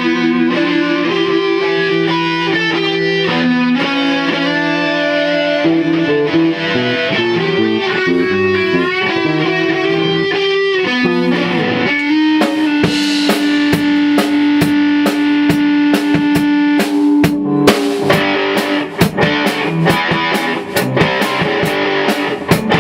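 A rock band playing in rehearsal: electric guitar holding and changing sustained notes, with the drum kit coming in about halfway and hitting harder and more often near the end.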